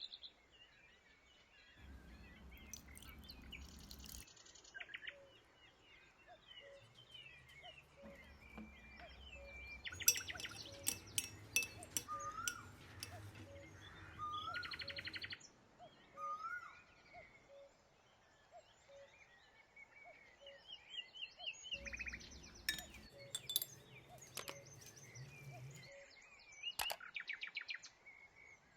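Several birds chirping and calling, with quick trills and short rising whistles, while a low rumble comes and goes three times.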